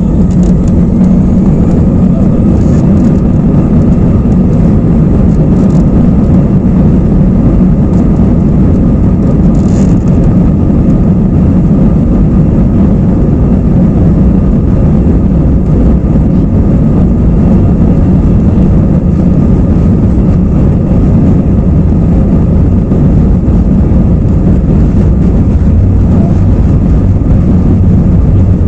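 Inside the cabin of an Airbus A320-214, its CFM56 jet engines and the airflow make a loud, steady roar with a deep rumble, typical of takeoff power on the takeoff roll and initial climb.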